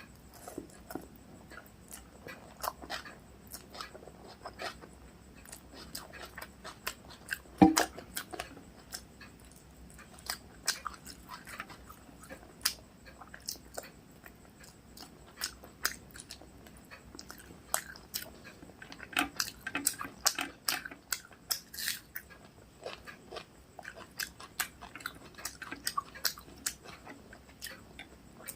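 Close-up chewing and wet mouth clicks of someone eating rice with chicken curry and egg curry, coming irregularly throughout, with one much louder knock about eight seconds in.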